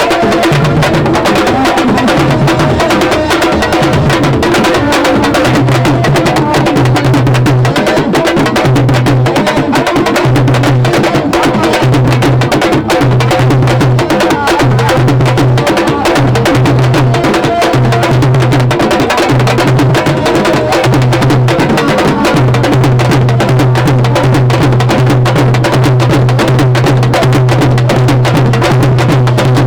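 Loud, dense drumming and percussion, with rapid strikes running on without a break and a low note that comes and goes.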